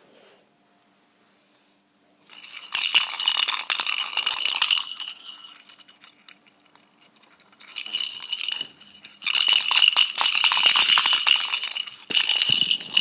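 Something small rattling and jingling in four bursts of one to two and a half seconds each, with a steady high ring through the loudest parts.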